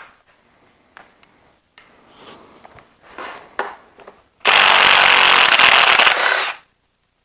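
A few light metal clinks, then an impact wrench runs loud and steady for about two seconds, spinning out a clutch bolt, and stops abruptly.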